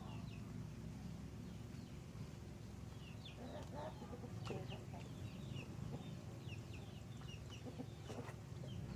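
Birds chirping in a scattered run of short, high, falling notes, over a low steady hum and a few soft knocks.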